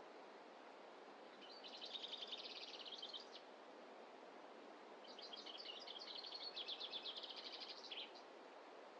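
A songbird singing two fast trilled songs of rapid, repeated high notes, one shorter and then a longer one a couple of seconds later, over a steady faint hiss of forest ambience.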